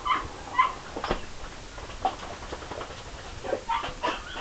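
Dogs giving short high whimpers and yips: two near the start, then a quick cluster near the end.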